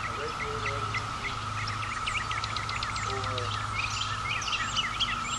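Distant chorus of periodical cicadas: a steady, even drone that sounds like air leaking out, with songbirds chirping over it.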